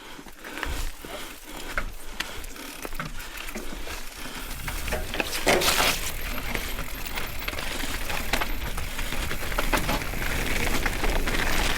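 Mountain bike on a wet trail: scattered clicks and knocks at first, then from about four seconds in a steady, growing rush of tyre noise and wind on the microphone, with rattles from the bike.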